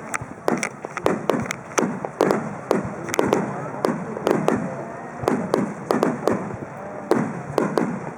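Aerial fireworks shells bursting in quick succession, sharp bangs about two to three a second, each one trailing off in a falling echo.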